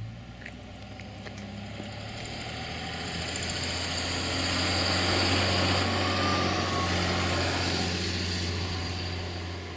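A motor vehicle's engine running with a steady low hum, under a swell of engine and tyre noise that builds to a peak about halfway through and fades toward the end, as a vehicle passes close by.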